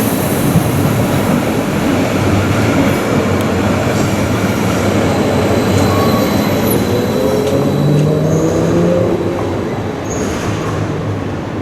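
SBB RABe 503 (ETR 610) electric tilting train running on the rails with a steady rumble. A rising whine comes in about halfway through and lasts a few seconds, with a few brief high squeaks.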